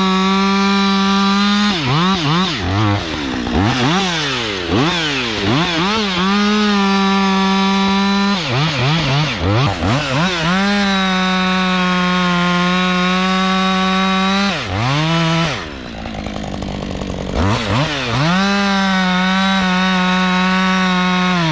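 Husqvarna 562 XP two-stroke chainsaw bucking a blown-down tree into firewood lengths. There are several long full-throttle cuts, with the engine blipped up and down between them and dropping briefly to idle about three quarters of the way through.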